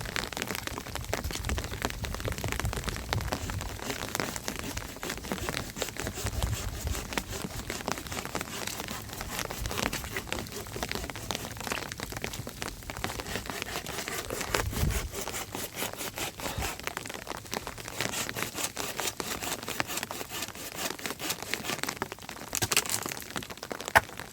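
Heavy rain falling, a dense patter of drops, with low rumbles in the first several seconds and again about fifteen seconds in, and one sharp crack near the end.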